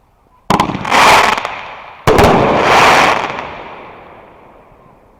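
Two fireworks going off about a second and a half apart. Each starts with a sharp bang and is followed by a loud rushing crackle that swells and then slowly dies away.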